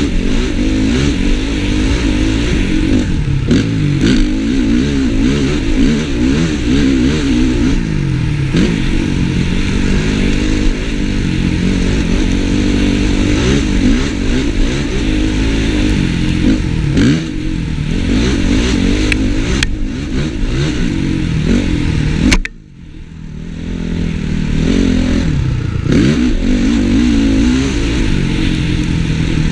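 Honda CRF450 single-cylinder four-stroke motocross bike engine being ridden hard off-road, revving up and down continuously, heard from a helmet-mounted camera. About three-quarters of the way through the engine sound drops away suddenly for a moment, then builds back up.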